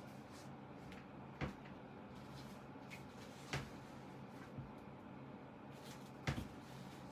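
A few short, sharp clicks or light knocks, about two seconds apart, from small objects being handled on a work surface, over a faint steady hum.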